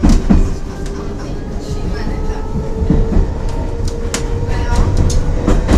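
London Underground C stock train running between stations, heard from inside the carriage: a steady low rumble and hum, with the wheels clacking over rail joints, the loudest knocks near the start and near the end.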